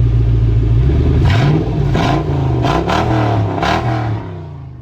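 2003 Toyota Sequoia's 4.7-litre V8 running loud through an exhaust cut open ahead of the catalytic converters. The engine holds a steady note for about a second, then is revved up and down several times in quick blips before falling away near the end.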